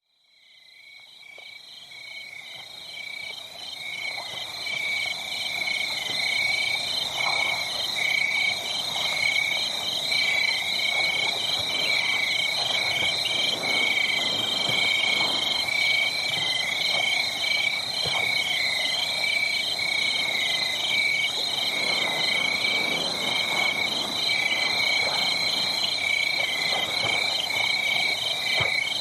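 A steady chorus of night insects and frogs calling in fast, pulsing trills, with fainter irregular crackling of a wood fire underneath. It fades in from silence over the first few seconds.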